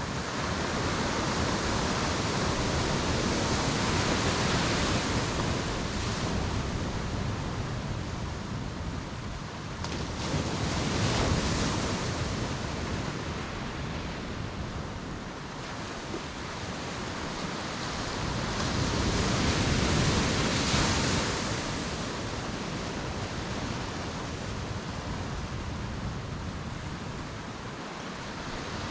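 Sea waves breaking and washing up the beach, with three louder surges spaced several seconds apart.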